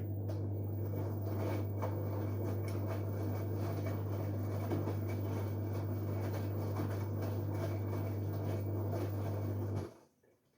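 LG Direct Drive washing machine working through a wash cycle: a steady low hum under rushing, sloshing water noise for about ten seconds, starting and cutting off abruptly.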